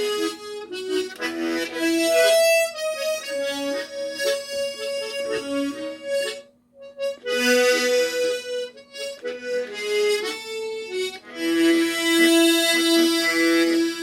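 Harmonica playing a slow melody phrase with chords under the notes, breaking off briefly about halfway, then holding a long note near the end.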